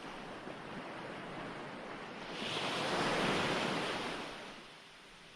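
Ocean waves washing on a shore: a steady hiss of surf, with one wave swelling louder a little before halfway and then fading back down.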